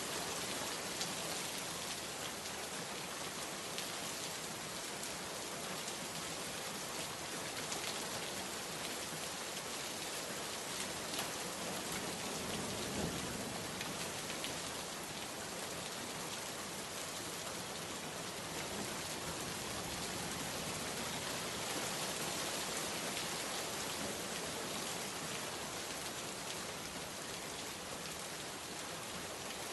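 Steady heavy rain, an even hiss with scattered taps of drops on a surface, and a short low rumble about halfway through.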